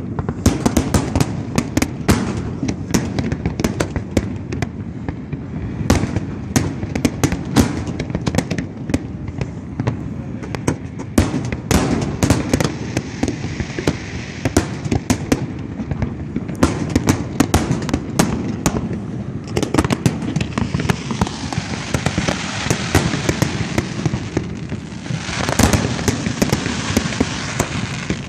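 Fireworks display: a rapid, irregular run of bangs and crackles as shells burst overhead. From about twenty seconds in, a dense crackling fizz fills in between the reports, and a cluster of louder bangs comes near the end.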